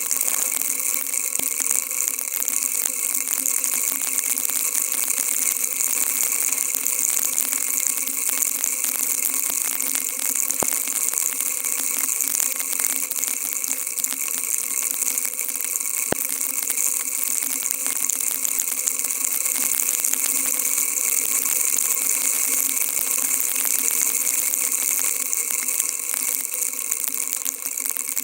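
Steady rushing hiss of heavy rain, unbroken throughout, with a few faint single ticks.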